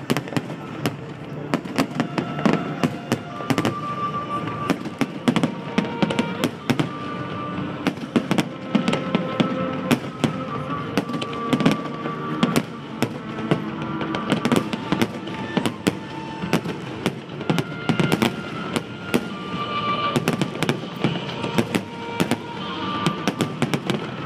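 Fireworks display: shells bursting in rapid, irregular succession, many sharp bangs and crackles a second, over music with held notes.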